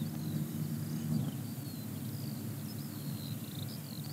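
Small birds chirping and twittering outdoors, many short high whistles sliding up and down, over a steady low rumble.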